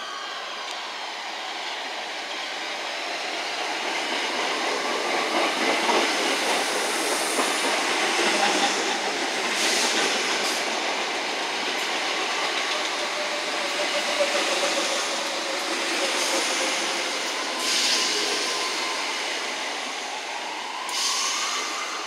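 Class 319 electric multiple unit running along the platform: a steady rumble of wheels on rail that builds to its loudest about a third of the way in, broken by a few sharp clacks. Faint drawn-out wheel squeal in the middle, and a rising whine near the end.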